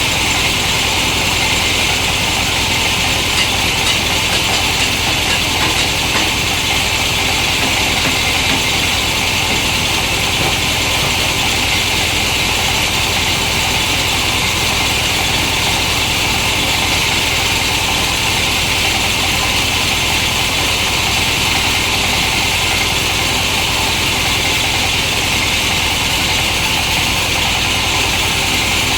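Chainsaw running steadily under load, ripping a log of hard wood lengthwise.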